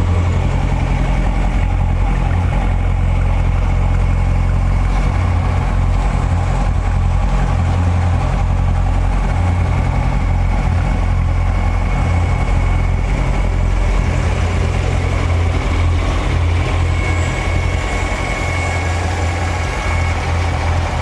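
C7 Corvette V8 idling steadily, a loud low rumble with no revving.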